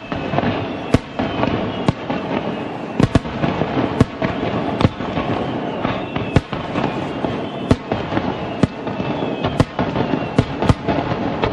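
Fireworks going off: many sharp bangs at irregular intervals over dense, continuous crackling, with faint falling whistles now and then.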